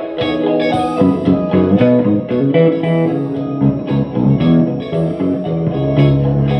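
Electric guitar playing a quick run of plucked notes and chords, with low bass notes underneath.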